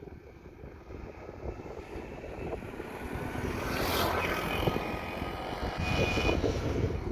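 An engine running and growing louder, mixed with wind rumble on the microphone.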